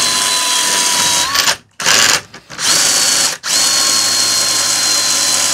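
Cordless drill-driver whining as it spins a Simson M500 moped engine over by its crankshaft nut. It stops and starts again twice before running on steadily. Under it is a scratching noise from inside the engine, which the mechanic traces to the gearbox.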